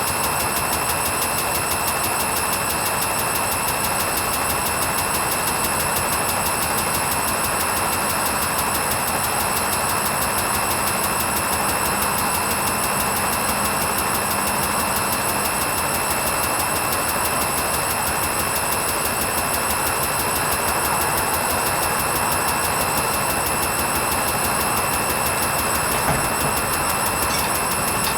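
Hoover Vision HVP16 washing machine spinning on its wool programme: a steady rush of the turning drum with a constant high motor whine.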